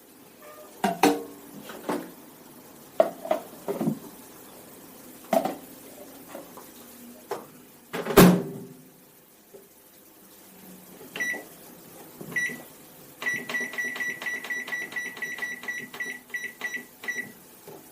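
Samsung MS23K3513AK microwave oven being loaded and set: scattered knocks and clicks with one loud thump about eight seconds in, then two single control-panel beeps and a fast run of beeps for about four seconds as the extra cooking time is entered.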